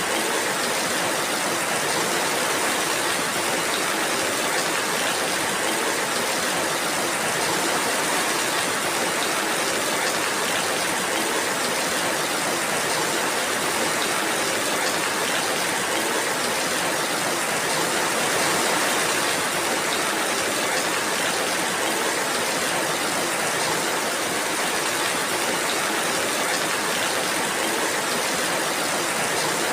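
Steady rainfall: an even, unbroken hiss with no single drops or other sounds standing out.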